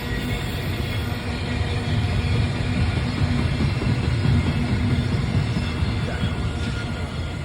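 Freight train rolling past, a dense low rumble of wagons on the track that grows louder through the middle and eases off near the end.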